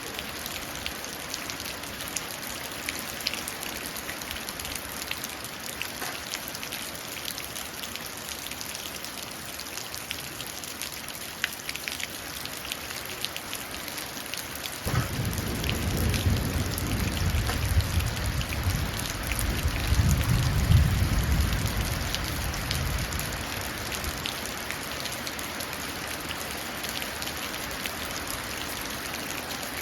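Steady rain pattering and dripping into a puddle. About halfway through, thunder breaks in as a low rumble that swells twice and dies away over about eight seconds.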